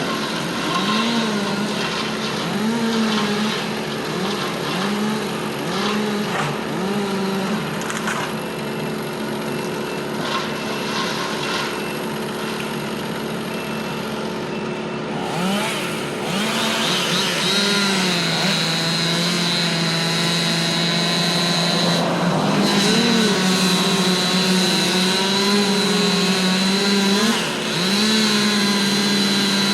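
Chainsaw cutting up a tree, its engine revving up and down about once a second. About halfway through it gets louder and holds steadier under load, with a thin high whine joining in.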